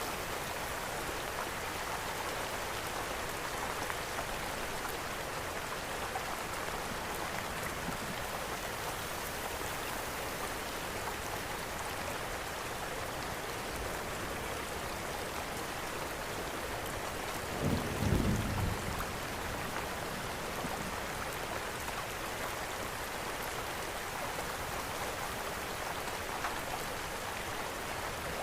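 Steady rain falling, with a brief low rumble of thunder about two thirds of the way through.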